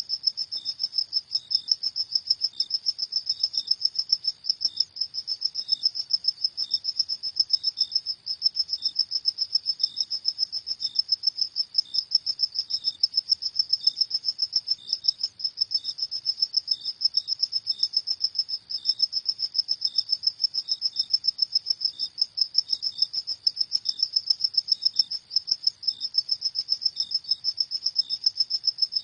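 Crickets chirping at night in a steady, rapid, high-pitched pulsing trill, with a second, slightly lower chirp repeating every second or so.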